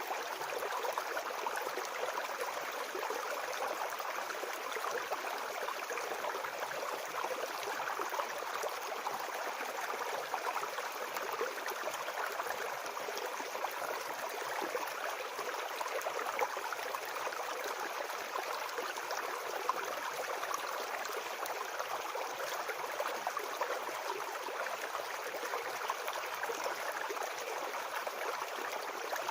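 Brook babbling and gurgling over stones, a steady flow of water.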